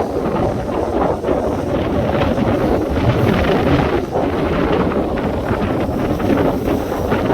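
Strong wind buffeting the microphone, a loud, steady rumbling rush that swells and eases slightly in gusts.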